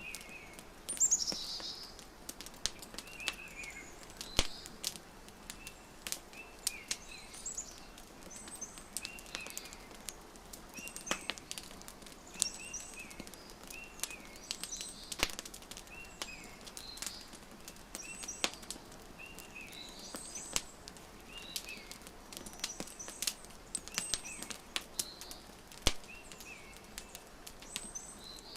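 A wood fire crackling, with sharp snaps and pops scattered irregularly through a faint hiss. Small birds chirp over it in short, repeated calls that dip in pitch.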